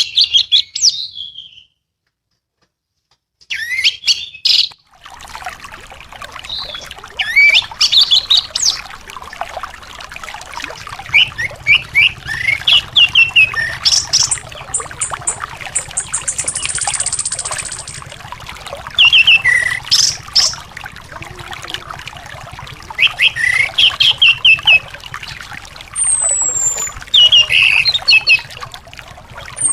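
Songbird song: short repeated chirps and whistled phrases over the steady trickle of running water, a 'terapi' recording meant to get a caged anis thrush to start singing. A brief silent gap comes near the start.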